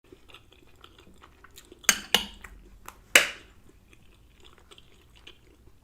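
Cutlery clinking against dishes: three sharp clinks, two close together about two seconds in and the loudest, with a brief ring, about three seconds in, over faint small clicks.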